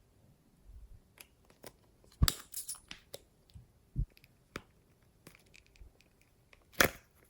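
Glossy slime being pressed and stretched by hand, giving irregular sticky clicks and crackly pops, with a loud cluster about two seconds in and another sharp burst near the end.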